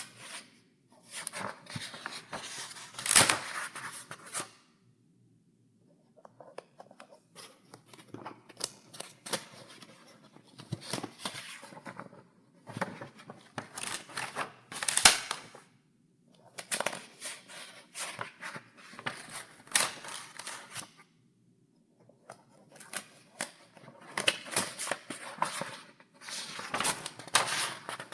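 Paper pages in a file being turned one after another: a rustling swish with crisp snaps at each turn. It comes in runs of a few seconds broken by short pauses.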